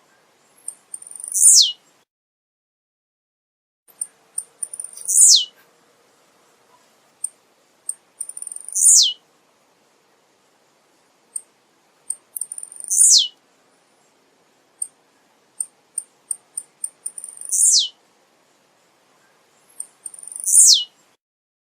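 Male blue-black grassquit (tiziu) singing. It repeats a short, high, downward-sweeping song note six times, one every three to four seconds, with short high ticks in between.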